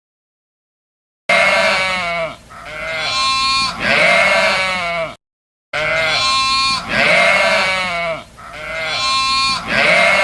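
Sheep bleating: a run of about three wavering bleats, then after a short pause the same run again.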